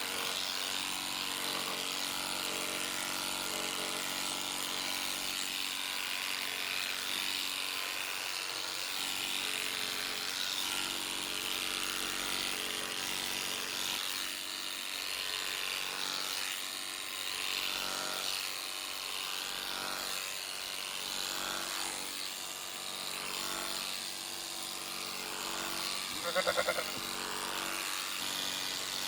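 Electric sheep-shearing clippers running with a steady buzzing hum. A sheep bleats briefly near the end.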